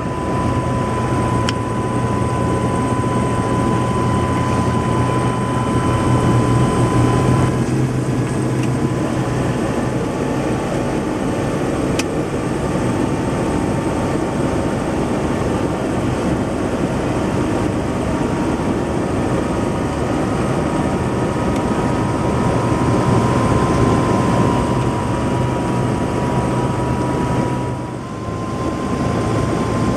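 Helicopter in flight: loud, steady rotor and engine noise with a steady whine, dipping briefly near the end.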